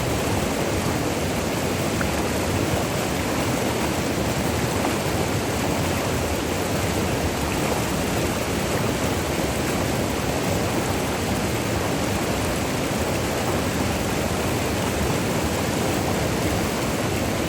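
River water rushing and splashing over small falls: a steady, even rush.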